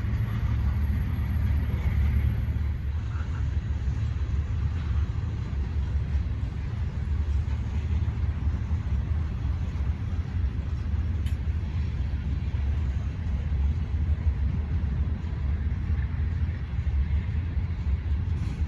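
Steady low rumble of a CSX freight train on the move.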